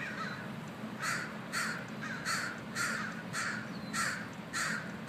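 Crows cawing over and over in harsh calls, about two a second, starting about a second in: alarm calls as they mob a hawk on its seagull kill.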